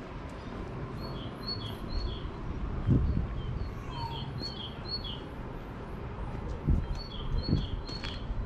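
A small songbird singing short bursts of a repeated two-note phrase, high then slightly lower, three times. Underneath is a low rumble with a few dull thumps of footsteps on cobblestones.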